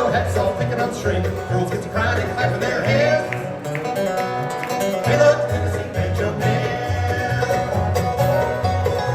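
Bluegrass band playing with no vocal line heard, banjo and guitar picking over an alternating two-note bass line.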